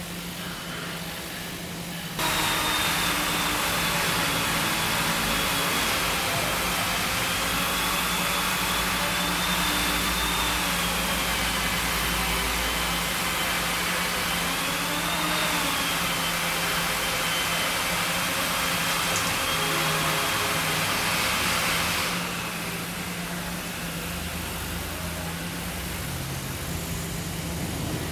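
Woodworking power tool switched on about two seconds in, running with a high, slightly wavering whine for about twenty seconds, then cut off. A steady low machine hum runs underneath throughout.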